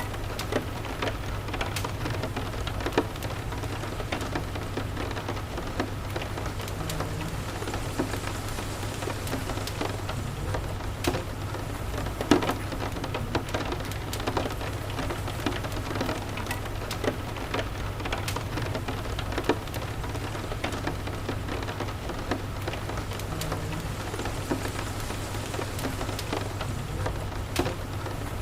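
Steady rain with a low steady rumble underneath, and frequent sharp crackles and pops from a wood fire in a fireplace.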